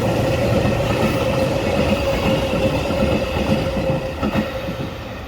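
Metra commuter train passing, its wheels clicking rhythmically over rail joints under a steady tone and rumble. The sound fades away near the end as the train goes by.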